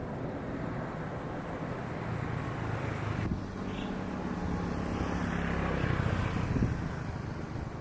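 Jet airliner engines heard as the plane passes: a rushing roar that swells to its loudest about six seconds in, then eases off.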